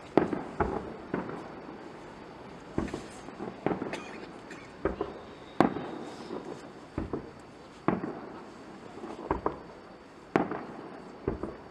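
Fireworks display: aerial shells bursting in irregular sharp bangs, some in quick pairs, with their echoes rolling over a steady background rumble.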